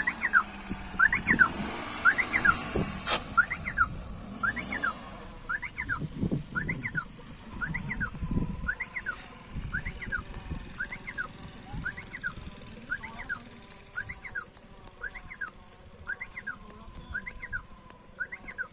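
Car's reverse warning beeper sounding steadily as the car backs up: a repeating rising-then-falling chirp, a little under two a second, over the low hum of the engine.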